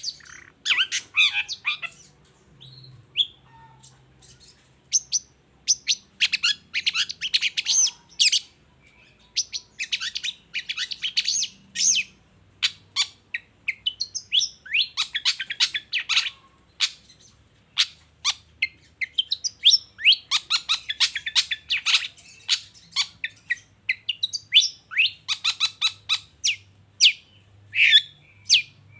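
Long-tailed shrike (cendet) singing: bursts of fast, sharp chattering notes with short pauses between them, broken here and there by single sharp notes.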